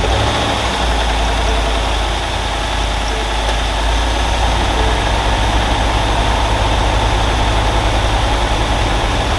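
2016 Ford F-150's 5.0L Coyote V8 idling steadily just after start-up on fresh oil, while oil pressure builds and the new oil fills the system.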